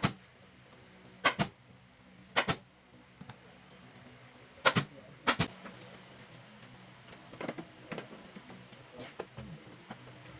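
A series of sharp knocks or clicks, most in quick pairs, loudest in the first half and fainter ticks later, over a faint steady hum.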